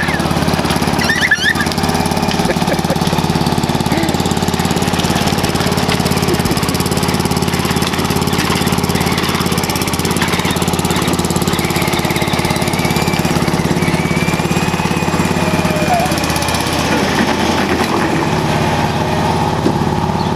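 John Deere lawn tractor's small petrol engine running steadily at a constant speed.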